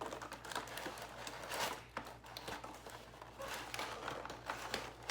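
Cardboard box and plastic toy packaging rustling and crinkling with irregular small clicks and scrapes as a toy fire truck is pulled out of it.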